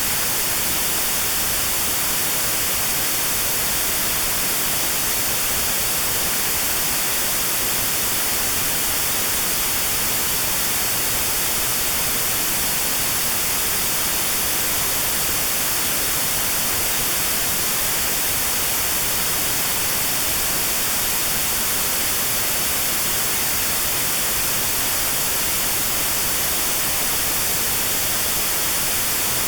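Steady white noise with a narrow band around 4 kHz cut out of it (notched white noise for tinnitus sound therapy), the hiss brightest in the treble.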